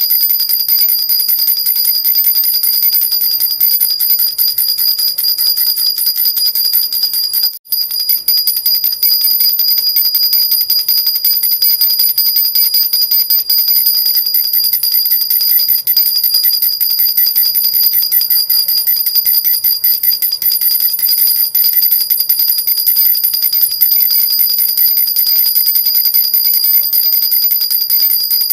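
Metal jhunjhuna baby rattle with small bells, shaken continuously in a fast, steady jingling. It breaks off for an instant about seven and a half seconds in, then goes straight on.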